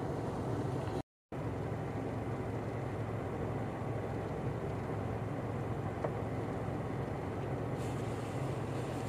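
Steady low rumble of motor vehicles on a snowy road, cut by a brief total dropout about a second in.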